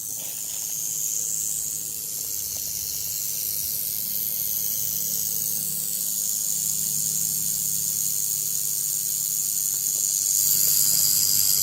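Timber rattlesnake rattling: a steady high buzz that grows louder near the end, the warning sound of a disturbed, defensive snake.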